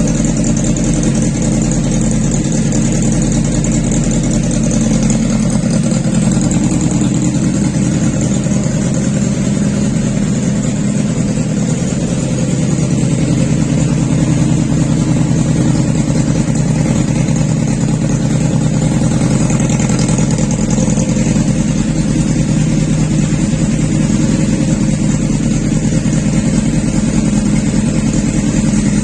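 Motorcycle engine running steadily at an even speed while it is being tuned.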